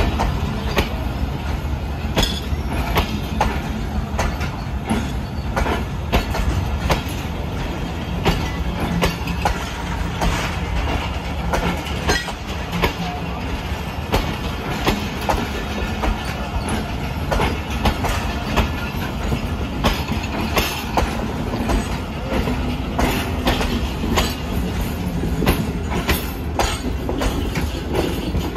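A train rolling along the track over a steady low rumble, its wheels clicking over rail joints and points in a rapid, continuous stream.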